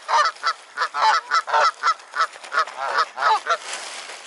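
A crowd of water birds calling, a rapid run of short pitched calls several a second, which stops about three and a half seconds in.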